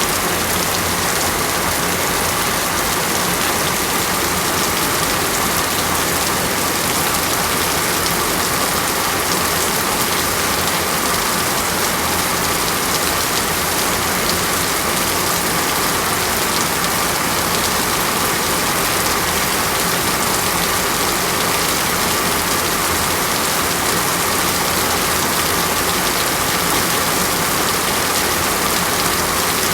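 Steady, continuous rain falling on surfaces, an even hiss with no breaks or changes.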